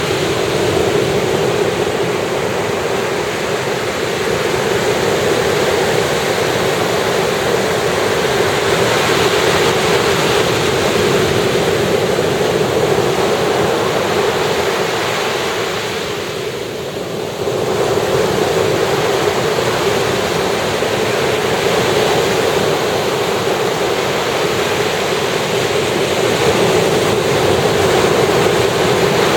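Ocean surf washing onto a beach: a steady, loud rush of breaking waves, easing briefly about two-thirds of the way through before building again.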